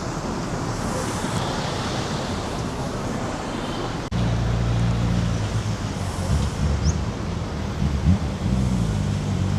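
Outdoor street and promenade noise with wind buffeting the microphone. About four seconds in, after a sudden cut, a louder low droning hum joins it, its pitch shifting near the end.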